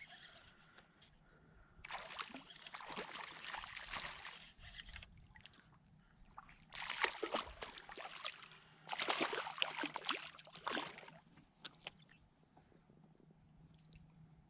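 Water sloshing and splashing against a kayak in three uneven bursts, with quieter stretches between them.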